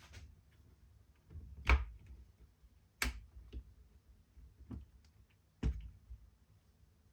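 Handling of a Wera Tool-Check Plus bit set and its case: about five separate sharp clicks and knocks, the loudest a little under two seconds in.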